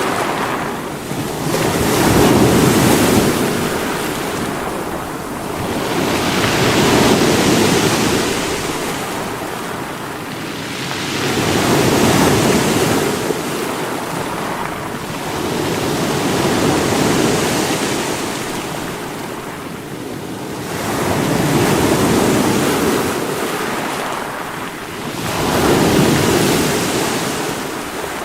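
Sea waves breaking against rocks, surging and washing back in a slow rhythm of about one wave every four to five seconds.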